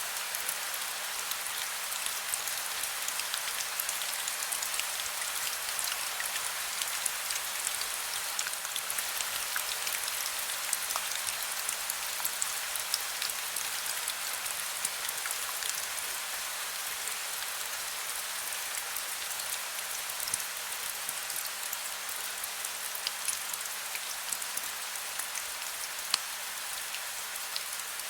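Heavy rain falling steadily: a dense, even hiss with many sharp individual drop ticks scattered through it.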